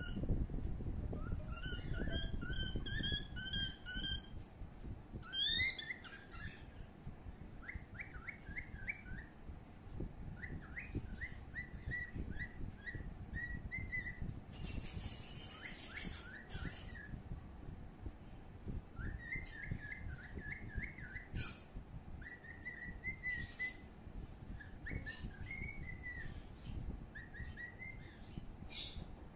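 A bird singing short whistled, chirping phrases of quick rising and falling notes, repeated every second or two. A low rumble of wind or microphone handling runs underneath and is strongest in the first few seconds.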